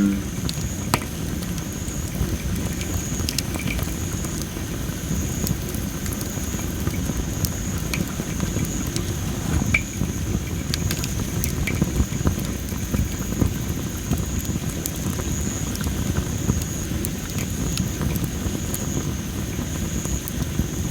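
Well-dried masaki (Japanese spindle) firewood burning in a campfire, crackling with scattered sharp pops over a steady low rustle of the flames. A steady high-pitched trill runs underneath.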